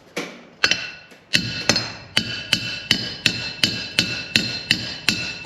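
Hammer blows on a metal bearing driver, tapping a bearing down onto a shaft. The blows are steady, about three a second, each with a bright metallic ring.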